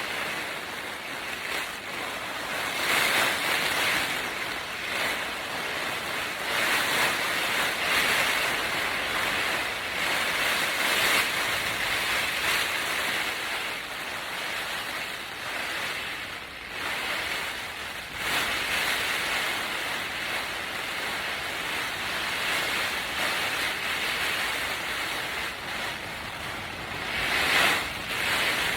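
Strong, gusty storm wind buffeting a tent, a continuous rushing that swells and drops with each gust every few seconds.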